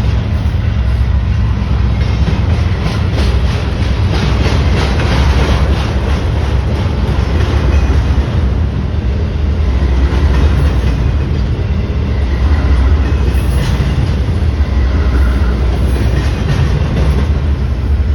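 Freight train rolling past, a steady heavy rumble with the rhythmic clatter of wheels over rail joints, busiest early in the pass.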